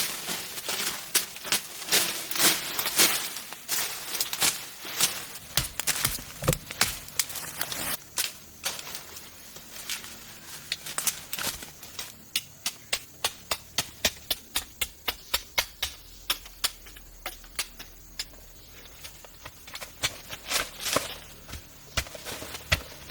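Many sharp knocks and taps, irregular and loud at first, then a fainter, fairly even run of about three or four light taps a second through the middle.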